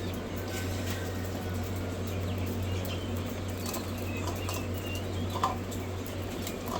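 Newly hatched quail chicks peeping in short, high, scattered chirps over a steady low hum, with light scratching and rustling and one sharp tap late on.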